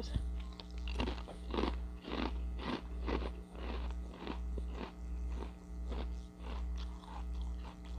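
Close-up chewing of crisp Ritz Toasted Chips, with sharp crunches every half second or so. Under it, a low hum pulses about one and a half times a second.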